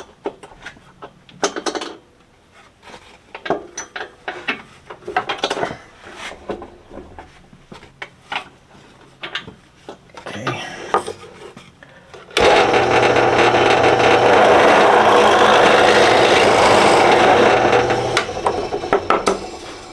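Wooden parts and tools handled with scattered knocks and clicks, then a power drill boring a 3/8-inch hole through a cedar fence-picket board, running loud and steady for about five seconds before it winds down and the clatter resumes.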